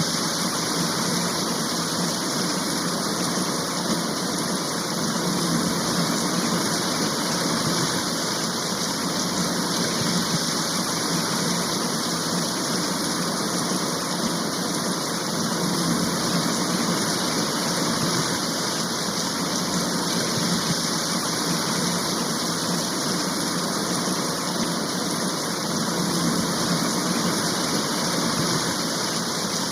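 Heavy rain shower falling steadily, an even hiss with no breaks or single drops standing out.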